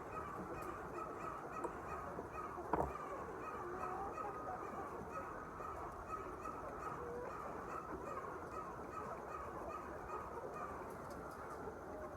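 A large flock of poultry calling together, a dense steady chatter of many overlapping calls, with one sharp knock about three seconds in.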